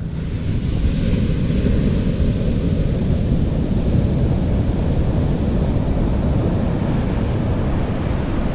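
Sea waves washing onto a beach, with a hiss of surf that swells at the start and eases over the next few seconds. Wind rumbles on the microphone throughout.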